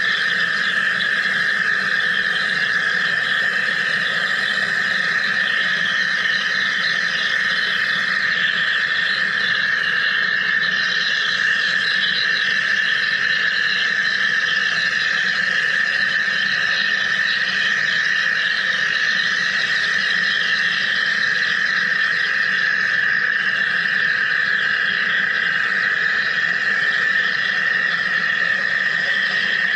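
Wire EDM machine cutting: a steady high-pitched buzz with a dense crackling hiss above it, unchanging in level.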